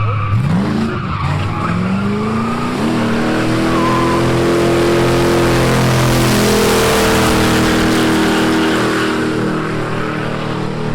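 A car doing a burnout: the engine revs climb twice, then hold high while the rear tyres spin and squeal, the tyre noise building to its loudest in the middle and easing off near the end.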